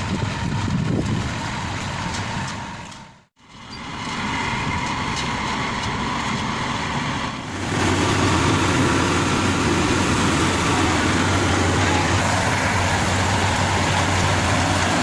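Combine harvester's diesel engine running steadily. The sound drops out briefly about three seconds in, and from about halfway it runs louder with a steady low hum.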